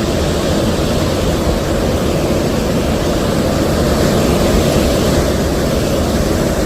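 Steady, loud rushing of storm water and wind, deepest and strongest in the low range.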